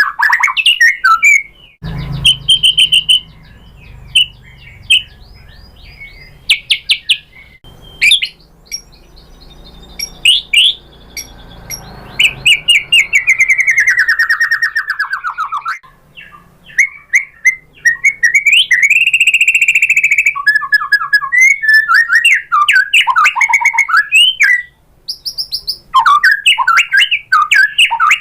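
White-rumped shama singing a loud, varied song of whistles, fast trills and rattling notes in quick phrases with short pauses between them, including a long falling whistle about halfway through.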